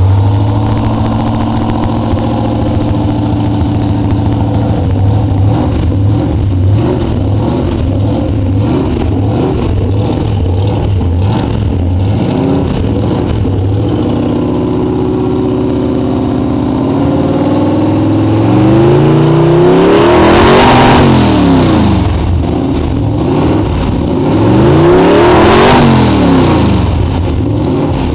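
A V8 car engine idling loudly with an uneven, lumpy beat. About two-thirds of the way in it is revved up twice, each time climbing in pitch and falling back to idle, and these two revs are the loudest part.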